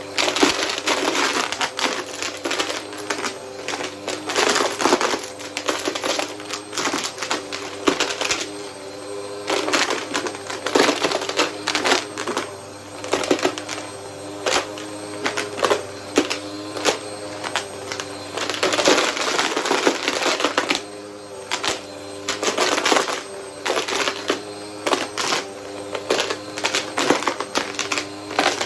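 A vacuum cleaner running with a steady hum while sucking up coins, which clatter and rattle through it in rapid, irregular clicks.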